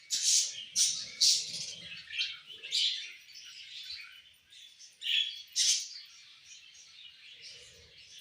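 Small pet parrots chirping and chattering: a run of sharp, high chirps over a continuous twittering, loudest in the first three seconds and again around five seconds in.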